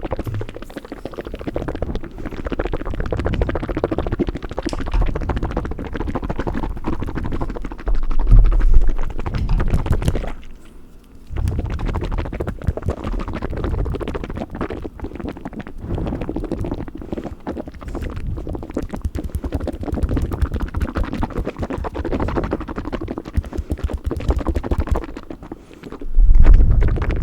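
Fast wet mouth sounds and tongue fluttering close to the microphone: rapid clicks and smacks, with a short pause about eleven seconds in. Twice a low rumble swells up on the microphone, about nine seconds in and near the end.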